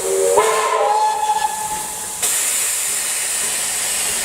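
Steam locomotive whistle blown for about two seconds, several tones rising in pitch as it opens and then held; about two seconds in a loud hiss of escaping steam takes over and continues.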